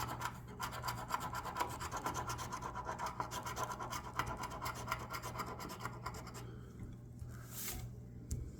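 Scratch-off lottery ticket being scratched, rapid rasping strokes across the card's latex coating that stop about six and a half seconds in. A brief rub and a light tap follow near the end.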